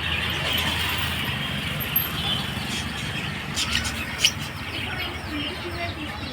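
Small birds chirping repeatedly, more often in the second half, over a steady background hum of traffic and market noise.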